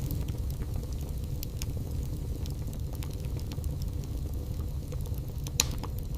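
Wood fire burning in a fireplace: a steady low rumble with scattered small crackles, and one sharper pop about five and a half seconds in.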